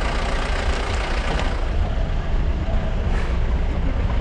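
A motor vehicle's engine running steadily, with a heavy, continuous low rumble.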